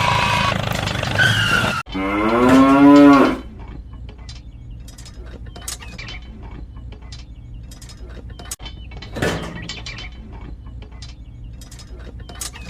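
A cow moos once, a long low call about a second and a half long, starting about two seconds in after a louder sound cuts off abruptly. A faint steady hum with scattered small clicks follows.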